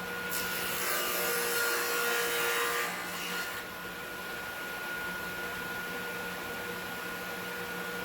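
Table saw blade cutting a shallow trial groove into the edge of a board: a hiss of cutting lasting about three seconds, under a steady hum that runs throughout.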